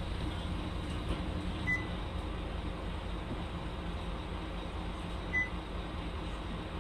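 Scania K310UB bus's diesel engine running with a steady low rumble, with two short high electronic beeps a few seconds apart.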